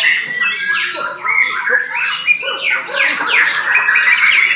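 Many white-rumped shamas singing at once: a dense, unbroken chorus of rapid sweeping and chattering notes.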